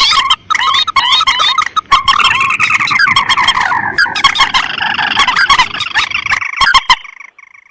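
Bird-lure recording of rice-field rails, mandar and tikusan, calling. Many quickly repeated calls overlap in a dense chorus, broken by abrupt cuts, and die away near the end.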